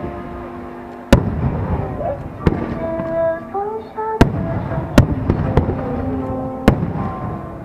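Aerial fireworks shells bursting: about five sharp booms, each followed by crackling, over a song played for the show.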